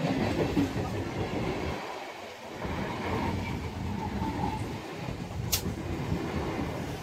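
Eastern Railway electric multiple-unit local train passing close by, its coaches and wheels rumbling along the track. The rumble dips briefly twice, and there is a single sharp click about five and a half seconds in.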